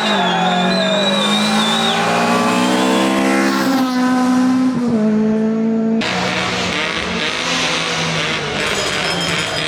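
Rally car engine climbing steadily in revs, with a wavering tyre squeal over the first two seconds, then held at high revs. About six seconds in it cuts abruptly to another rally car's rougher engine and tyre noise.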